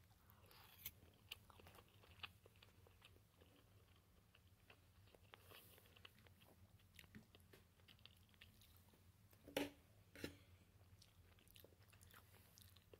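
Faint chewing close to the microphone: soft mouth clicks and small crunches, with two louder clicks about nine and a half and ten seconds in.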